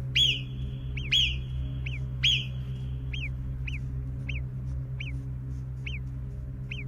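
Alpine marmots giving alarm whistles: short, sharp calls that fall in pitch, repeated about every half second to a second. The loudest three come in the first two and a half seconds. A run of multiple whistles like this is the marmots' alarm for a fox. A low steady drone sits underneath.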